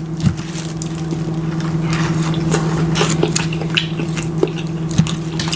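Close-miked chewing: wet, irregular clicking and smacking mouth sounds of someone eating a mouthful of food, over a steady low hum.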